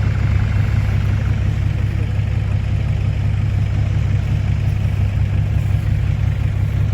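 Isuzu Rocky dump truck's diesel engine idling steadily with a low, even hum.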